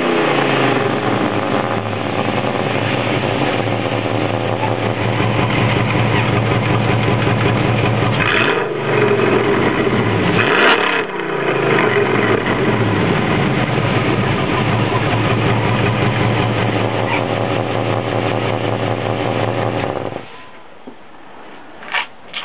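2005 Dodge Ram 1500's 5.7-litre Hemi V8 running through its exhaust, revved up and back down twice, then shut off suddenly, followed by two short clicks near the end.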